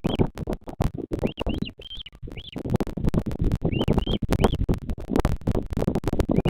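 A bird's short, high, arched chirps repeated in groups of two or three, over loud crackling and low rumbling noise on the nest microphone.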